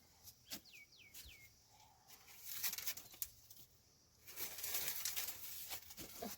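A bird gives three quick chirps, each falling in pitch, then two longer bursts of fluttering wings.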